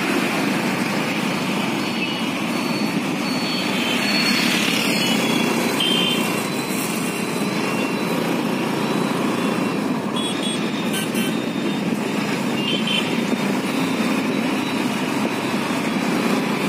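Steady engine and road noise from a motorcycle riding through city traffic, with a few brief high-pitched tones now and then.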